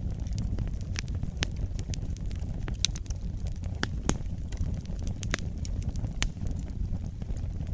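Wood fire burning in a fireplace: a steady low rumble of the flames with frequent irregular crackles and pops, a couple of sharper pops about three and four seconds in.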